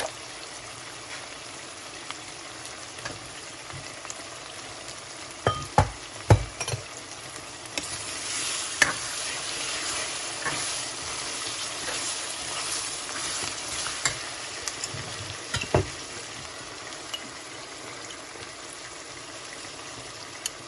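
Onion-tomato masala with ground spices sizzling in oil in a stainless steel pan while it is stirred with a steel spoon. The spoon knocks against the pan a few times about six seconds in and again near sixteen seconds. The sizzling grows louder in the middle while the mixture is being stirred.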